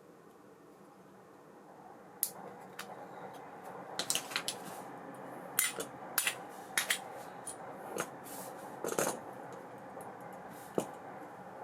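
Small metal parts of an ABU Ambassadeur 5500C baitcasting reel clicking and clinking as the reel is handled and worked on, irregular light taps over a faint steady hum.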